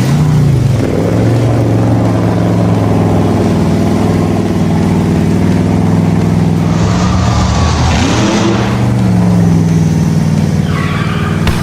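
Monster truck engine running loudly and steadily, dipping in pitch and revving back up about eight seconds in, with a hiss over it for a second or two around then.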